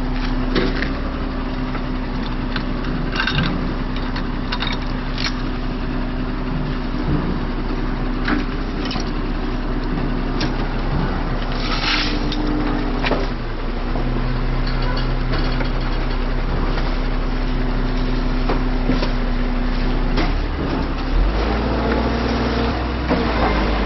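Heavy truck diesel engine running steadily, its pitch shifting a couple of times, with scattered short knocks.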